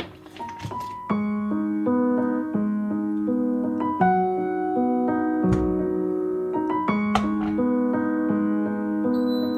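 Background piano music playing slow, held chords. A short rustling noise sounds in the first second, as the music comes in.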